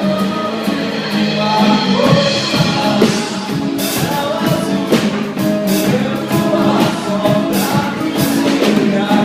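A trio playing an upbeat Brazilian song, with singing and regular percussion strikes that grow busier about four seconds in.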